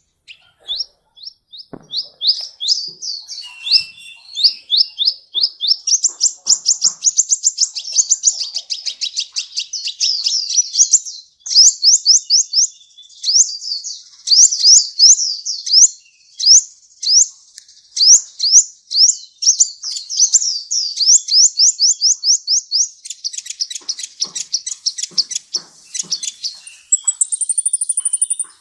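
Sunbird ('kolibri') singing a long, fast run of high, sweeping chirps, many a second, in loud bursts with short breaks, with a brief thin whistle near the end.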